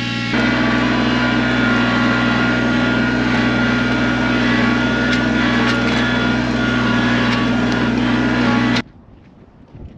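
Kubota BX23s sub-compact tractor's three-cylinder diesel engine running steadily under load. It gets louder just after the start, then cuts off abruptly near the end, leaving faint wind noise.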